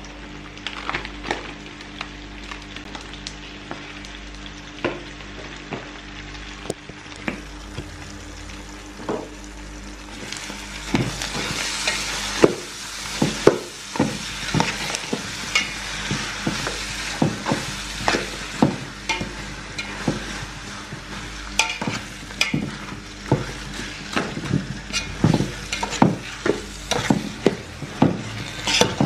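Blended tomato paste frying and sizzling in hot palm oil in an aluminium pot, stirred with a metal fork that clicks and scrapes against the pot. The sizzle grows louder about ten seconds in, and the stirring clicks come frequently from then on.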